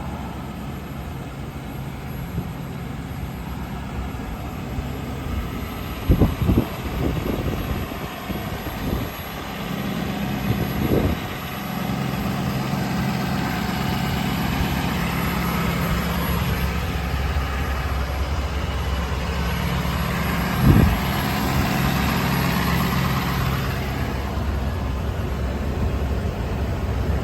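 Ford F-350 pickup engine idling steadily, a little louder from about ten seconds in, with a few short knocks around six, eleven and twenty-one seconds in.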